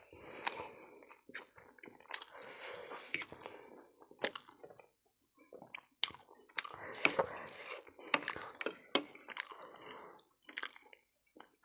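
Close chewing of a mouthful of pork keema noodles, with wet mouth sounds and a short pause about halfway through. Sharp clicks of a metal spoon and fork on the ceramic plate come as the noodles are mixed and lifted.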